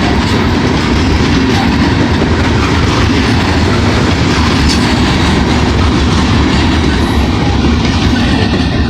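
CSX coal train's freight cars rolling slowly past, a steady, loud noise of steel wheels on rail.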